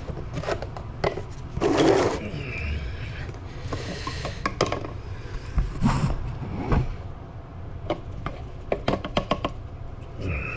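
Irregular scraping and knocking of hand work, with a few louder scrapes and many scattered sharp clicks over a steady low hum.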